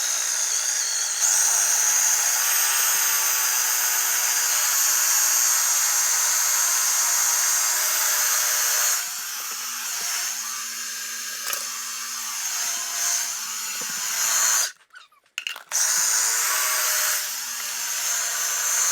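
Food processor motor running, pureeing cooked chicken breast with stock into a paste. It gets quieter and rougher about halfway through, stops for about a second, then starts again, its whine rising as it spins up.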